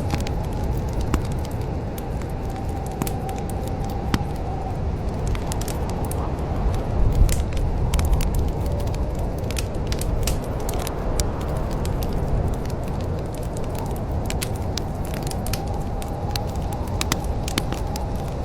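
Wood fire in a fireplace crackling, with scattered sharp pops over a steady low rush of the flames. A faint wavering whistle comes and goes near the start and again near the end.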